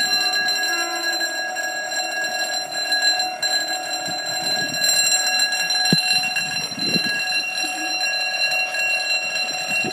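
Level crossing audible warning alarm sounding one continuous steady tone, which warns that a train is approaching and the barriers are closing. A single short knock is heard about six seconds in.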